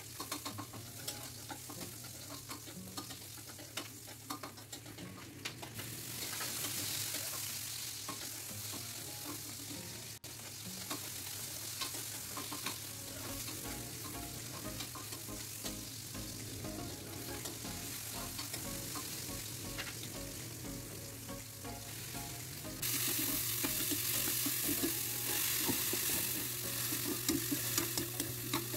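String beans and ground meat frying in a metal wok on a gas stove, sizzling steadily while a spatula stirs and scrapes them with many small clicks. The sizzle steps up about six seconds in and again near the end.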